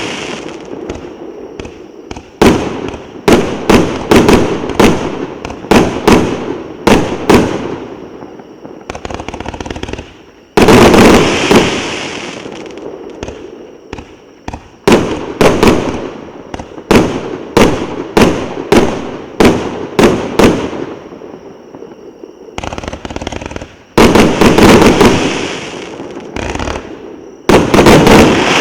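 1.2-inch firework battery (cake) firing: sharp shots about twice a second, broken by several rapid volleys of overlapping bursts with a crackle.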